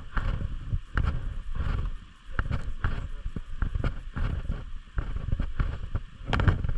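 Dirt bike's 250cc four-stroke engine running at low speed under a rough low rumble, with irregular knocks and rattles throughout as the bike goes over rough trail.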